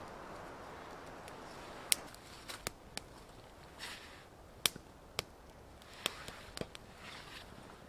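Dry firewood cracking and snapping at a small portable wood stove: a faint steady rushing hiss for the first two seconds, then about a dozen sharp, irregular snaps and knocks.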